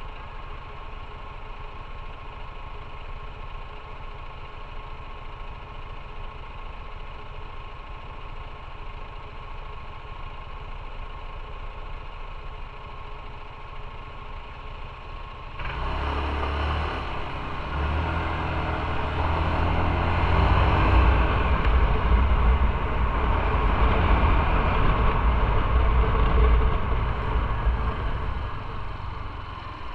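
Motorcycle engine running steadily at low revs, then about halfway through it pulls away and accelerates, growing louder with stepping changes in pitch. It eases off near the end.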